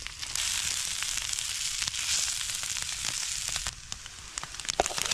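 Corned beef hash and egg sizzling in a small skillet, a steady hiss that drops away about three and a half seconds in, followed by scattered crackling pops and a sharp knock near the end.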